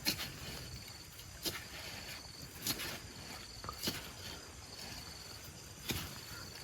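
A high, thin insect trill that starts and stops in stretches of about a second, with five sharp knocks at uneven intervals over it.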